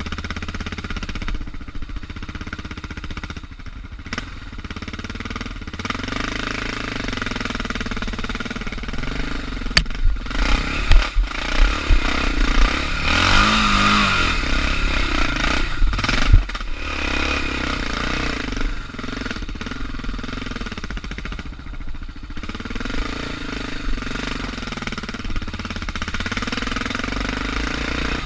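Suzuki DR650's single-cylinder four-stroke engine running at low revs on the move, its pitch rising and falling with the throttle. Revs climb in a longer pull near the middle, with a few sharp knocks just before and after it.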